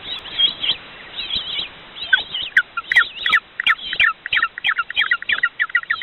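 A bird chirping: a few scattered calls, then a quick, even run of short chirps, about three a second, from about two seconds in.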